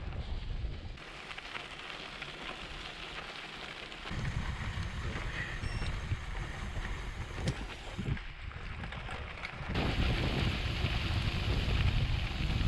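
Wind on the microphone and a gravel bike's tyres rolling over loose sandy gravel. The noise changes abruptly several times as separate riding clips are cut together.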